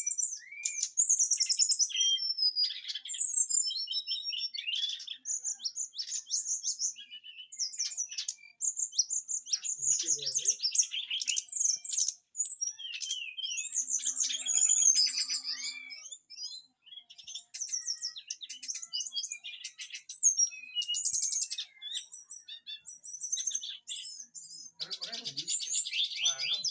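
A songbird singing non-stop: rapid, varied chirps, trills and quick sweeping notes, high-pitched, with harsh 'tembakan' filler phrases.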